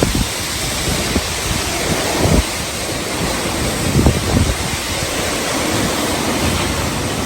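Hurricane wind blowing hard and steadily, with irregular gusts buffeting the microphone.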